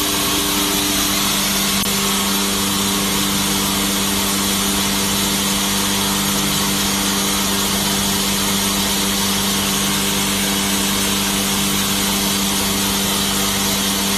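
Horizontal band saw running steadily: an unbroken machine hum with a hiss, holding level throughout.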